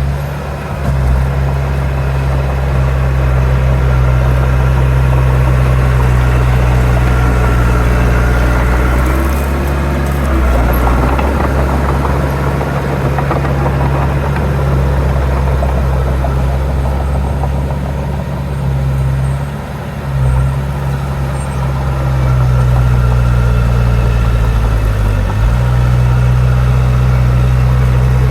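Heavy diesel engine of earthmoving machinery running close by, its low steady note shifting in pitch a few times as the load changes.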